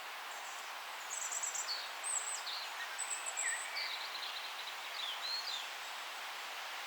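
Songbirds chirping and trilling in a forest, a run of quick high calls and short falling notes between about one and five and a half seconds in, over a steady background hiss.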